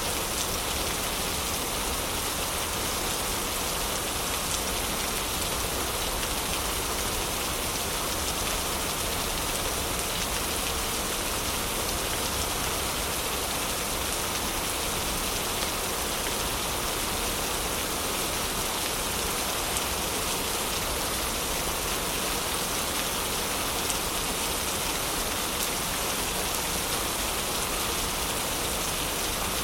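Heavy rain falling steadily, an even hiss with a few sharper ticks scattered through it.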